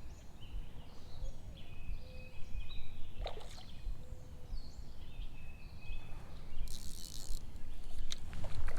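Songbirds singing in short whistled notes over a low, steady rumble of outdoor noise, with a brief hiss about two-thirds of the way through and a few sharp clicks.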